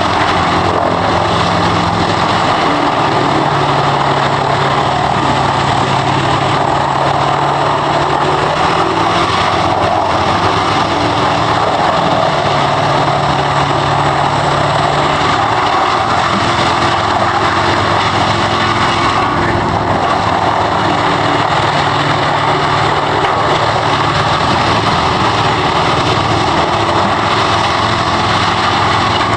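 Wood chipper's engine running steadily under load, with a continuous rushing noise over it and the pitch shifting slightly now and then.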